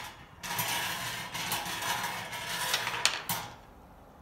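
Numbered draw balls rattling as they are mixed in a container, with a couple of sharp clicks near the end before the rattling stops.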